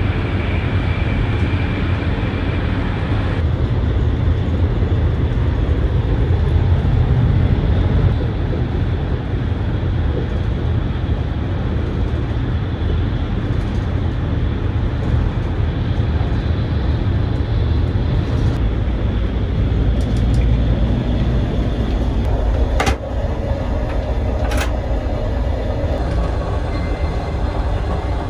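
Steady running noise of an ETR600 Frecciarossa high-speed train heard from inside the carriage, a constant low rumble. Two short sharp clicks come near the end.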